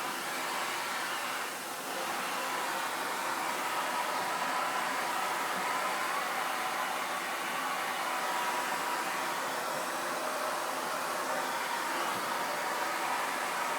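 Built-in central vacuum cleaner running steadily, its suction rushing through the hose with a steady whine, briefly dipping about two seconds in.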